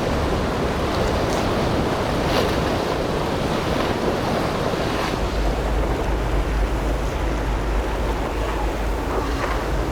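Ocean waves breaking, with wind buffeting the microphone; the low wind rumble grows stronger about halfway through.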